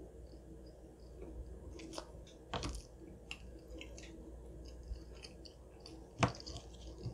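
Close-miked chewing of a mouthful of chicken sandwich, with a few sharp clicks and crunches; the loudest comes about six seconds in.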